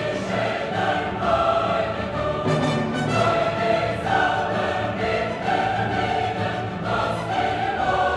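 Choral music on the soundtrack: a choir singing sustained chords in a classical style.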